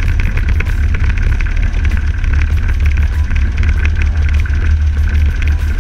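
Toyota Land Cruiser FJ40's F-series inline-six petrol engine running steadily on its new Davis Unified Ignition distributor, with a deep, even rumble.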